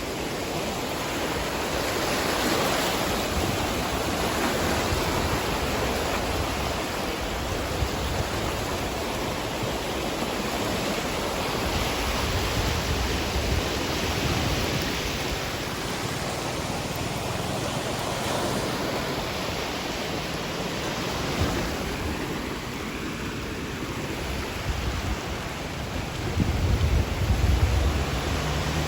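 Tidal bore (bono) wave surging: a steady rush of churning water that swells and eases every few seconds, with wind buffeting the microphone. Near the end a louder low rumble comes in.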